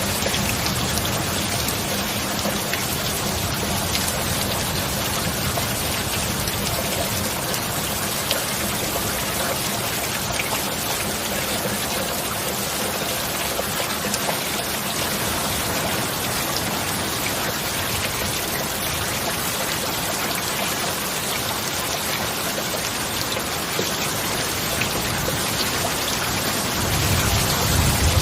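Steady heavy rain falling, an even hiss of drops with a few sharper individual drop hits. Near the end a low rumble of thunder starts to build.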